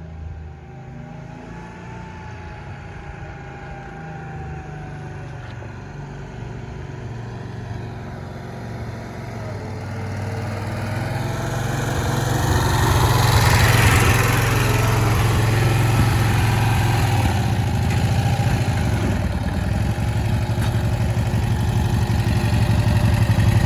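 1965 Cushman Truckster's small engine running, getting steadily louder over the first half and staying loud after.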